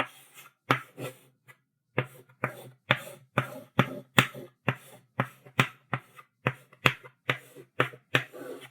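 Chalk writing on a blackboard: a series of sharp chalk taps and short scratchy strokes, about two a second, with a brief lull about a second in.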